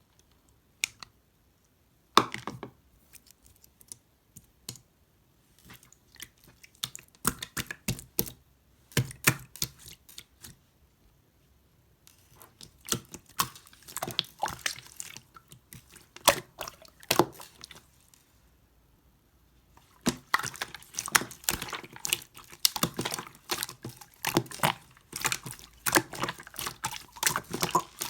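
Slime being squished and pressed by hand, making quick clicking and popping sounds in irregular bursts, with sparse clusters at first and dense, rapid clicking over the last eight seconds.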